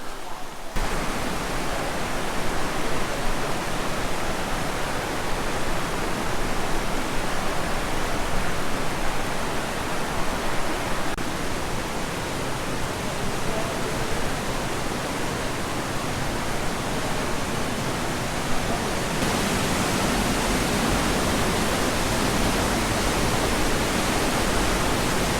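Steady rush of water from Zapata Falls pouring down, starting abruptly just after the beginning and turning fuller and deeper about 19 seconds in.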